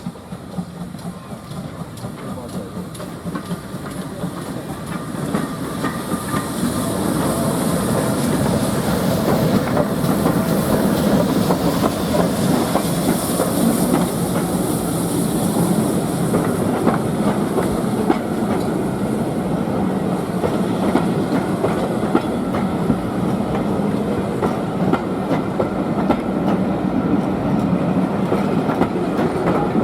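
A train running close by, its wheels clicking rapidly over the rail joints. It grows louder over the first several seconds, then holds steady.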